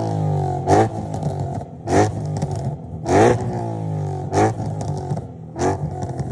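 Supercharged Ford Mustang V8 revved in short throttle blips through headers, a resonated X-pipe and Roush mufflers: about five sharp blips, each falling back toward idle. The resonated X-pipe has tamed the exhaust note a lot.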